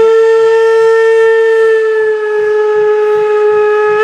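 Steam locomotive whistle sounding one long, loud, steady blast.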